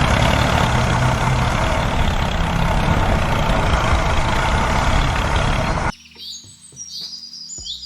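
A motor running steadily and loudly, which cuts off abruptly about six seconds in; birds chirp after it stops.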